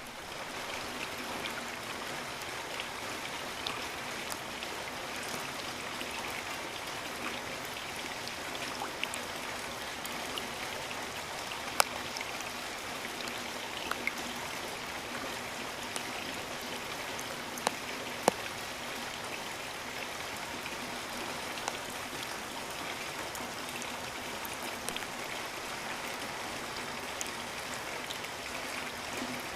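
Steady rain falling in a rainforest, an even hiss with now and then a single sharper, louder drop hit.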